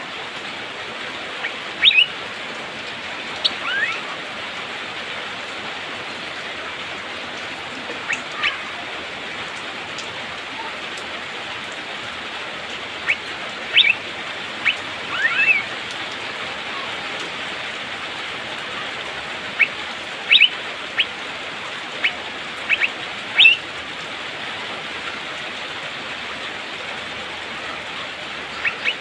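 Blue-winged leafbird (cucak biru) giving about a dozen short, sharp chirps and quick sweeping whistles, spaced irregularly, over a steady hiss of rain.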